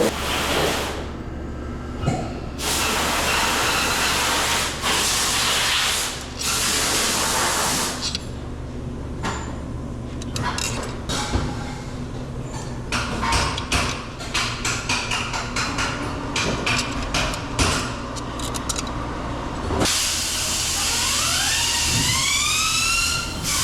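Workshop sounds from an engine being assembled on a bench. Long hisses of pressurized spray or air come and go, with a run of quick clicks in the middle and a short rising squeal near the end.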